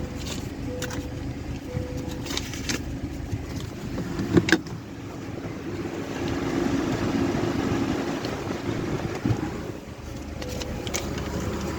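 Sonny's car wash tunnel equipment running with a steady mechanical rumble, louder for a few seconds in the middle. A short tone repeats about once a second near the start and again near the end, and a sharp knock sounds about four and a half seconds in.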